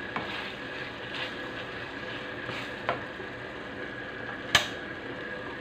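Longganisa sausages sizzling in a pan in their own rendered fat and ketchup, stirred with a spatula. There are a few light clicks, and one sharp knock of the spatula on the pan about four and a half seconds in.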